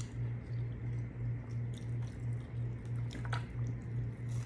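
Chewing of crispy, double-fried battered fish and shrimp, with wet mouth sounds and a few sharp crunches about three seconds in. A steady low hum pulsing about twice a second runs underneath.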